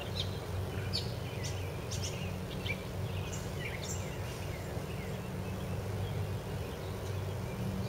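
Birds chirping in short, high calls over a steady low rumble; the calls come thick and fast for the first few seconds, then grow sparse.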